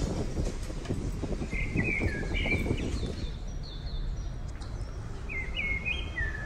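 Outdoor ambience: a steady background rumble, with a bird giving short chirping phrases twice, about a second and a half in and again about five seconds in.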